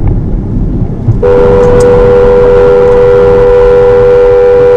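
A car horn held down for about three and a half seconds, two steady notes sounding together, starting about a second in and cutting off sharply, over loud road and engine rumble.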